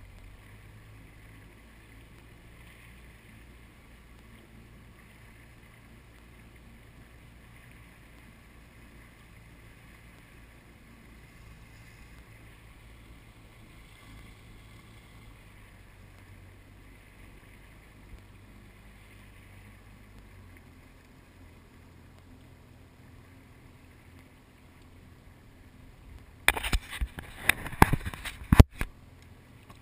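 Jet ski engine running low and steady with a faint low hum, easing off about two-thirds of the way through. Near the end come a couple of seconds of loud, rough crackling hits on the microphone.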